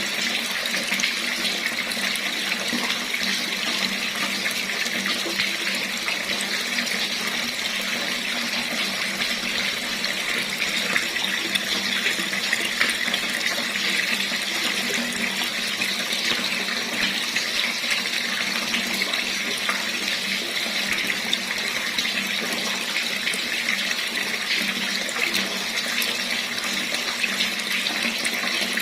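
Water running steadily from a tap, an even splashing hiss that doesn't change.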